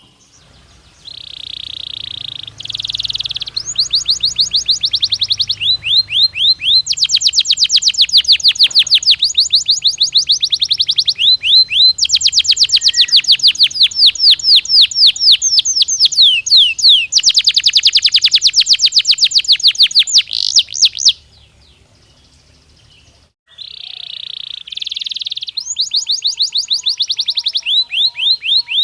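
Canary singing a long song of rapid repeated trills, each phrase a run of fast sweeping high notes, switching to a new trill every second or two. The song breaks off about 21 seconds in and starts again a couple of seconds later.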